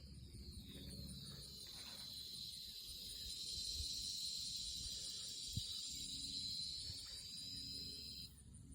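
Insects trilling outdoors: a high, steady buzz that swells a few seconds in and stops abruptly near the end, over a fast, even pulsing chirp. A single brief low thump comes about halfway through.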